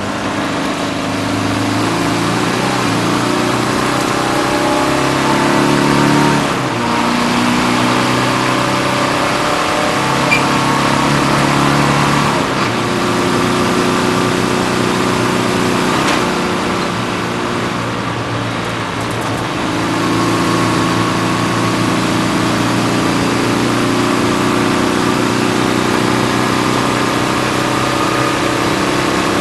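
BMW 330d race car's turbodiesel engine under hard acceleration, heard from inside the stripped cabin along with road and wind noise. The engine note steps in pitch as the driver shifts gears, dips briefly about a quarter of the way in, and goes quieter for a few seconds past the middle before pulling hard again.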